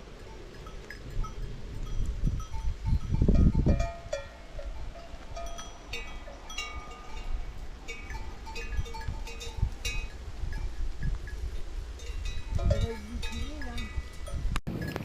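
Many small bells clinking irregularly, like the bells of a grazing flock, with an animal's bleat near the end and a low rumble about three seconds in.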